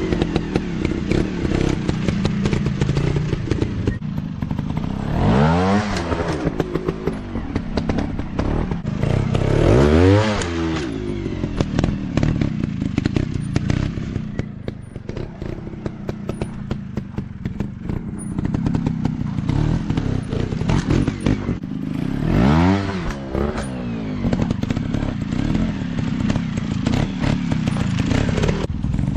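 Dirt bike engines running, revved up and back down several times, with a steady clatter of sharp knocks throughout.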